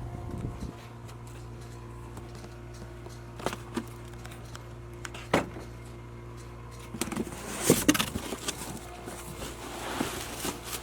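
A vacuum pump hums steadily while metal parts are handled, with scattered knocks and a burst of metallic clatter about seven to eight seconds in.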